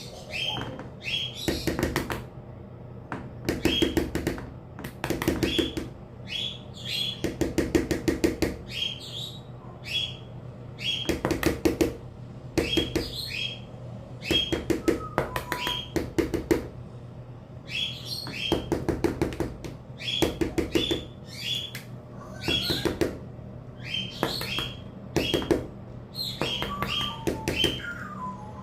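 A bird pecking rapidly at wood in short bursts of quick taps, every second or two, with short high chirps in between.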